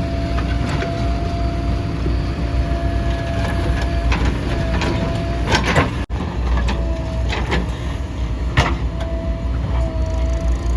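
Backhoe loader's diesel engine running under load, with a steady whine over the rumble and several sharp clanks from the middle on.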